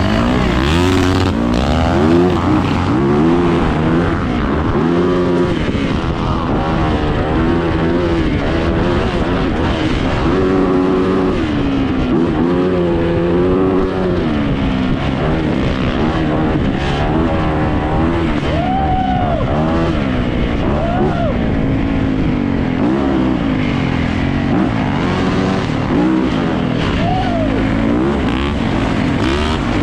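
Yamaha YZ450 dirt bike's single-cylinder four-stroke engine being ridden hard, revving up and down over and over as the throttle opens and closes and the gears change.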